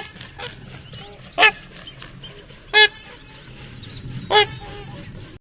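Swans honking: four loud, nasal honks about a second and a half apart, with softer calls and chirps from the flock in between.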